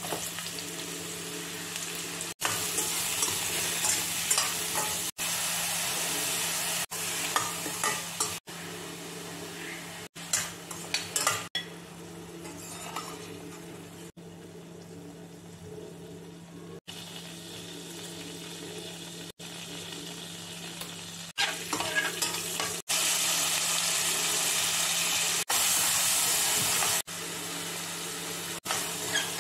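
Sliced mushrooms and then chopped onions frying in oil in a stainless-steel kadai: a steady sizzle, with a steel spoon stirring and now and then clinking against the pan. The sound cuts off and restarts abruptly about a dozen times.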